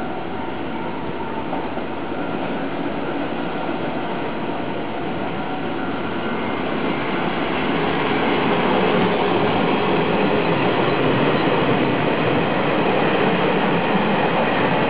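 E200-series electric locomotive hauling a Chu-Kuang Express passenger train past on the line: a steady rumble of wheels on rail that grows louder about eight seconds in as the train draws level.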